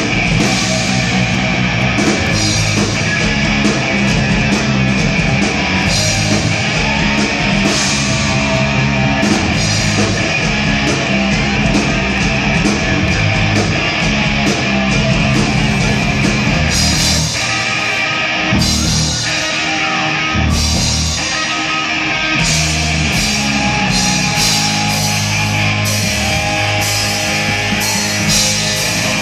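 A rock band playing live and loud: distorted electric guitars over bass and a drum kit. A little past halfway the low end drops back to a few separate hits before the full band comes in again.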